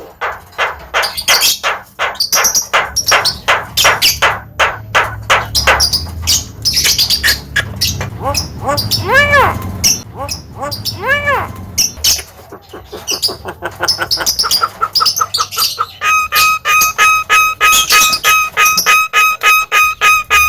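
Javan myna calling: a fast run of harsh squawking notes, two rising-and-falling whistled notes, then a steady series of identical beep-like notes at about four a second near the end.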